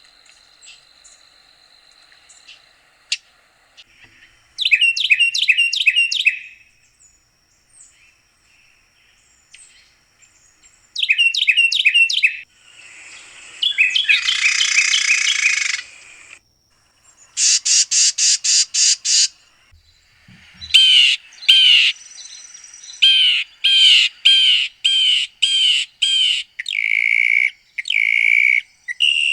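Songbird singing a series of different phrases, each a quick run of repeated high notes, with short pauses between them. The phrases change from down-slurred notes to a buzzy patch, then a fast trill, then a steady run of two-part notes near the end.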